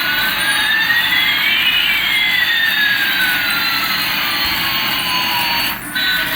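Electronic jet-engine sound effect from a toy airliner: a steady, loud hiss with one whistling tone rising and another falling across it, cutting off abruptly near the end.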